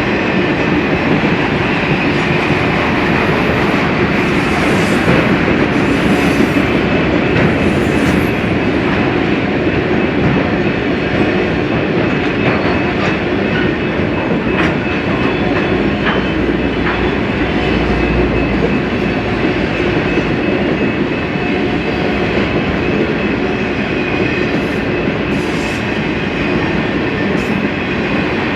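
BNSF freight train rolling past at steady speed: a continuous rumble of wheels on rail, with a faint steady squeal and a few sharp clicks from the wheels.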